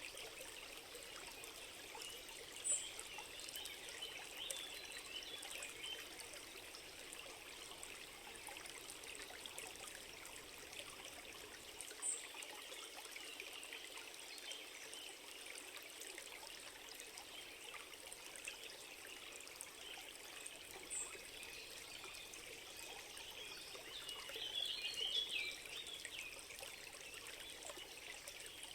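A small stream trickling and babbling steadily, with three brief high chirps spread through it and a louder stretch of bubbling about 25 seconds in.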